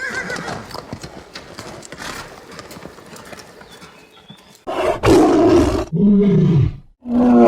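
Horse hooves clopping at a moderate level. About two-thirds of the way through, a large animal cuts in with three loud roars, each about a second long with short breaks between.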